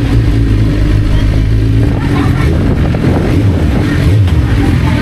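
Motorcycle engine running steadily underway, a low, continuous drone that rises and falls slightly with the throttle.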